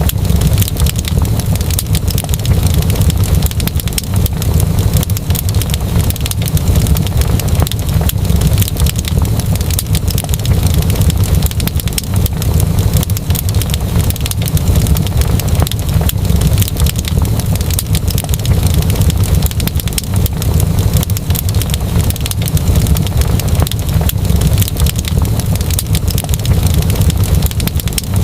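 Wood fire crackling, with frequent small sharp pops and snaps over a steady deep rumble.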